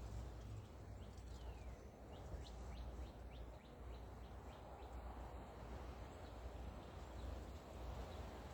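Small bird singing a quick run of short, high chirps that slide down in pitch, thickest in the first half, over a steady low background rumble.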